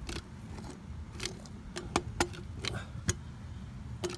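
Caulking gun being squeezed: about eight sharp metallic clicks at irregular intervals from its trigger and plunger rod, over a steady low rumble.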